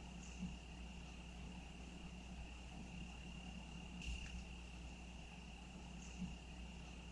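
Crickets trilling in one steady, unbroken high tone, faint, with a few brief soft sounds near the start, about four seconds in and about six seconds in.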